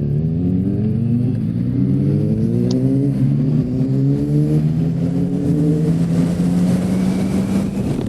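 Motorcycle engine accelerating up through the gears: its note rises, drops at each of three gear changes, then holds steady at cruising speed.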